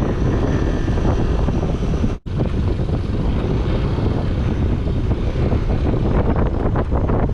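Wind rushing over the microphone on a moving scooter, over the scooter's engine and road noise. The sound drops out for an instant about two seconds in.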